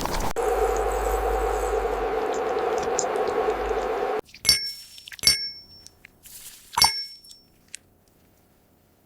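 A steady hiss with a low hum cuts off about four seconds in. It is followed by three bright glass clinks, each ringing briefly.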